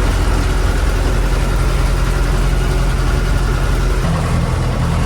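Pellet feed mill running with a loud, steady mechanical hum; the low part of the sound shifts abruptly about four seconds in.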